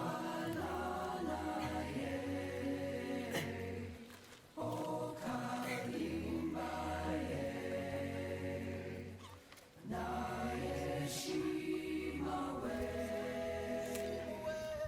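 Choir-like voices singing or chanting in long held phrases over a steady low drone, breaking off briefly twice, about four and ten seconds in.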